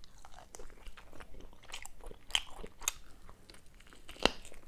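A person biting and chewing a roasted peri-peri chicken wing: a run of small scattered mouth clicks and smacks, with one sharper click about four seconds in.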